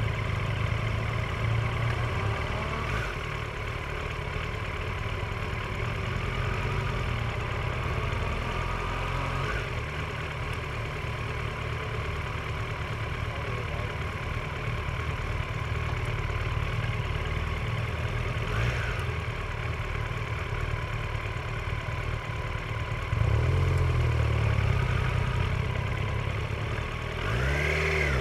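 Motorcycle engine idling and running at low speed, revving up to pull away twice in the last few seconds, with the pitch rising and falling each time.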